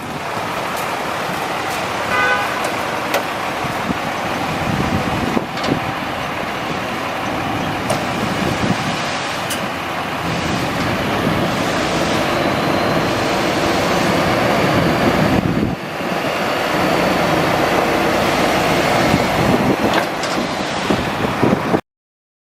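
International DT466E diesel dump truck running, heard with road and wind noise. A brief horn-like toot comes about two seconds in. The sound cuts off suddenly near the end.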